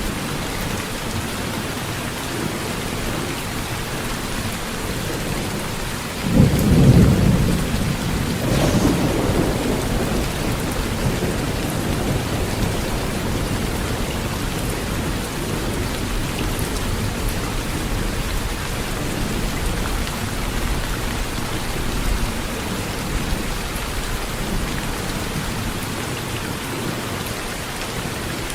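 Steady heavy rain falling on a tin roof, with a loud crack of thunder about six seconds in that rumbles on for a few seconds before the rain alone returns.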